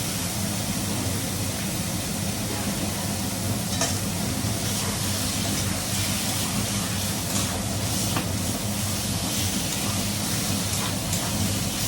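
Lotte (Bombay duck) fish pieces sizzling steadily as they fry in oil and spice masala in a pan, with a few light clicks and scrapes from stirring.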